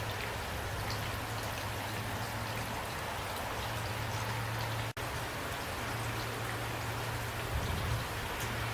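Steady rain falling, an even patter of drops with a low steady rumble beneath. The sound cuts out for an instant about five seconds in.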